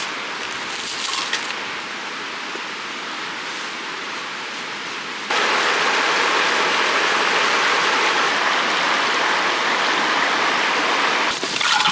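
Creek water flowing steadily, a continuous rushing hiss that becomes abruptly louder about five seconds in.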